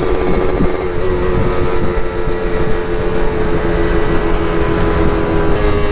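Two-stroke motorcycle engine running at a steady cruise, with wind rumble on the microphone. Its pitch shifts slightly about a second in and again near the end.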